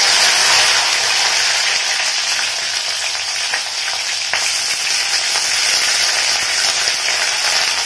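Flat beans (shim) frying in hot mustard oil in a steel kadai, with a loud, steady sizzle.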